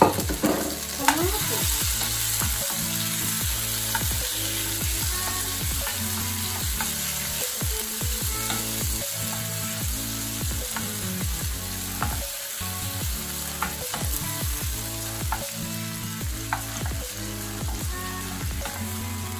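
Onion, garlic and freshly added tomatoes sizzling in hot oil in a pan, with short scrapes and clicks of a utensil stirring them.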